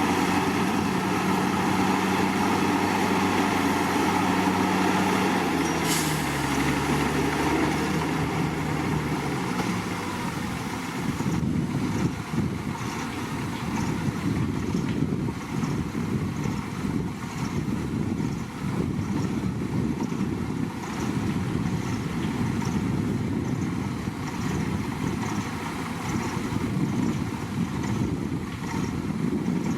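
Heavy diesel engine of earthmoving machinery running steadily, with a short hiss about six seconds in. The engine then slows, falling in pitch over a few seconds, and afterwards runs rougher with a faint regular clicking about once a second.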